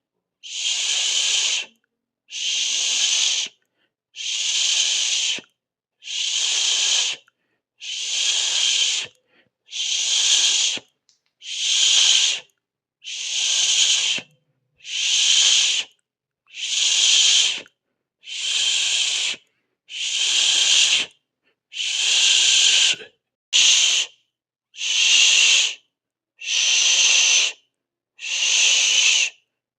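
A person hissing 'sss' through the teeth over and over in a steady rhythm: a burst of hiss about a second long, then a short silence, roughly one every two seconds, with one much shorter hiss partway through.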